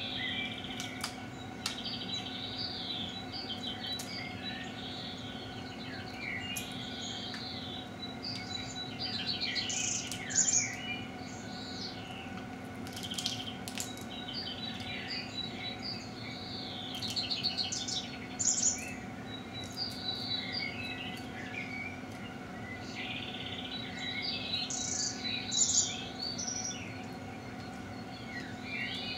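Many birds chirping and singing: short, varied calls and trills, some louder clusters now and then, over a steady low hum.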